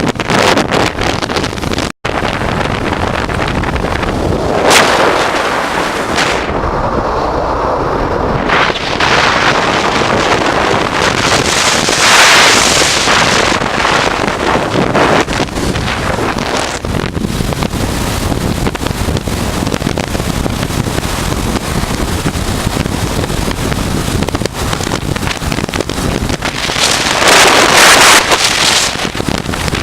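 Wind rushing over the microphone of a camera riding on a moving motorcycle, a loud steady rush that swells briefly about a third of the way in and again near the end. The sound cuts out for an instant about two seconds in.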